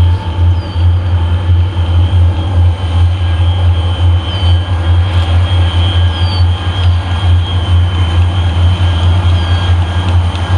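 Train passing close by: a loud, steady low rumble with a faint steady high tone above it.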